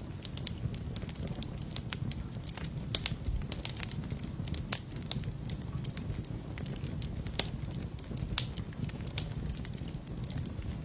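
Fire burning in a fireplace: frequent sharp, irregular crackles and pops over a steady low rumble of the flames.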